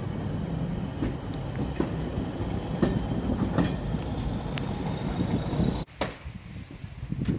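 Train rumbling along slowly, with a few sharp wheel clicks over rail joints about a second apart, heard from inside a heritage railway passenger carriage. About six seconds in it cuts off abruptly to quieter outdoor sound.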